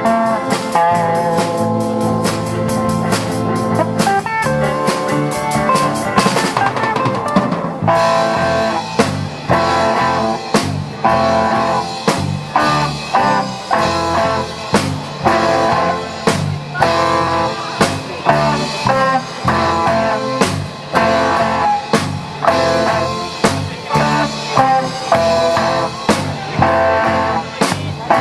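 A rock band playing an instrumental passage, with electric guitar over a drum kit. Held guitar chords come first; after a drum fill about seven seconds in, the drums settle into a steady, accented beat.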